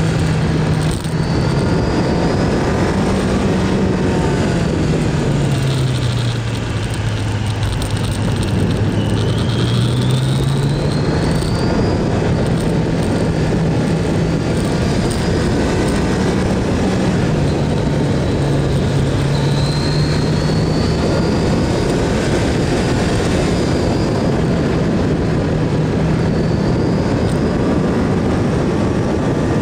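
Kawasaki GPZ900R's inline-four engine running under way, with heavy wind rush over it. Its note sinks for a few seconds near the middle and then climbs back, and it dips and rises once more later.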